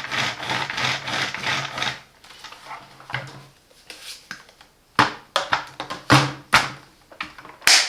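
Plastic parts of a cordless 2-in-1 stick vacuum being handled: a rubbing, rattling noise with a low hum for about two seconds, then several sharp clicks in the second half as parts snap and lock into place.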